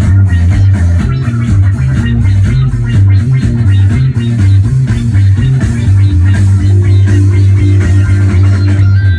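A live band playing a rock jam: a heavy bass line moving between notes, with guitar over a steady drum beat.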